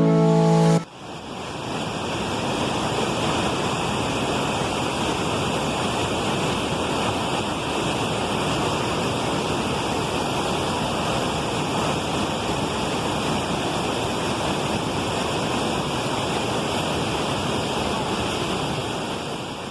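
Steady rush of a tall waterfall (a 154-metre drop), heard close up, unchanging in level. A brief bit of music cuts off just under a second in.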